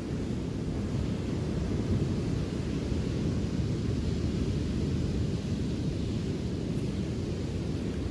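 Wind buffeting the microphone in a steady low rumble, over a fainter even hiss.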